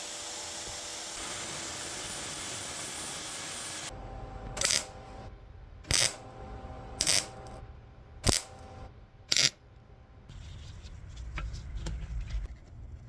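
A steady hiss. Then, after an abrupt change, five short, sharp metallic clicks about a second apart, and a low rumble near the end.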